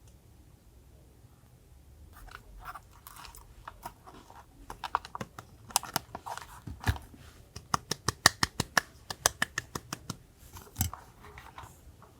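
Paper crafting sounds from collage journaling: paper and stationery handled at close range, giving a run of sharp clicks and taps that grows busier through the middle, at about five a second at its quickest, with a single heavier knock near the end.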